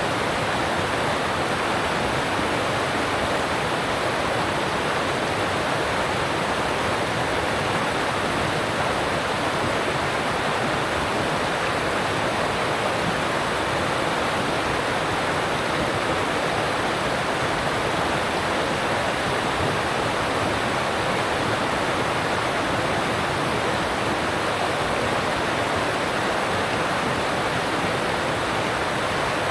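Alpine stream rushing over rocks: a steady, even wash of flowing water.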